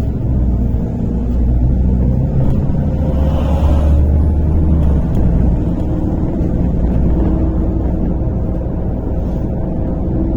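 Inside a MAZ-103 city bus under way: a steady low engine drone with road and cabin noise. The drone swells about two to five seconds in, with a faint rising whine.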